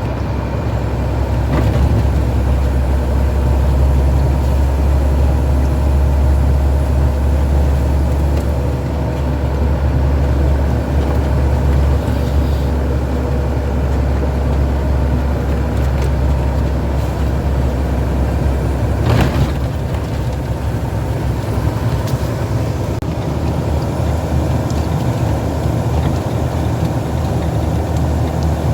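Heavy truck driving: a steady low engine drone with road noise. A single sharp click is heard about two-thirds of the way through.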